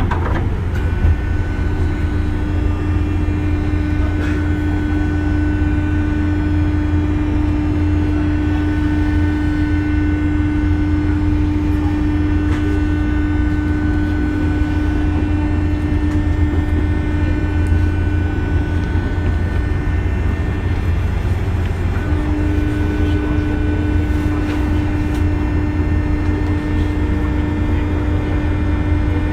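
Cabin sound of a JR West 201 series electric train: a steady low rumble with a sustained hum-like tone and fainter higher tones. The tone drops out briefly about two-thirds of the way through and then returns.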